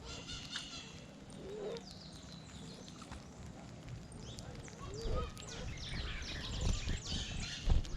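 Small birds chirping: many short, quick chirps that fall in pitch, with a few lower calls among them. Low rumbling and a couple of thuds come in the second half.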